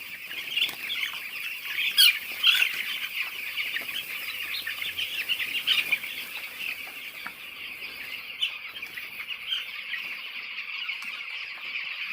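A brood of eleven-day-old chicks peeping continuously, many short cheeps overlapping, with a few louder ones in the first half.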